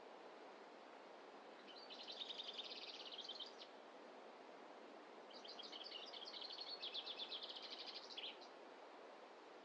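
A songbird singing two rapid, trilled phrases, a short one about two seconds in and a longer one about five seconds in, over a faint steady background hiss.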